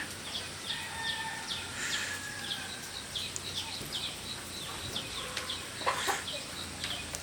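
Birds chirping in quick, short, high notes that slide downward, repeating about two or three times a second, with a single sharp knock about six seconds in.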